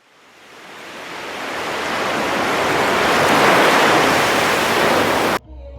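Ocean surf rushing, swelling gradually over a few seconds and cutting off abruptly near the end.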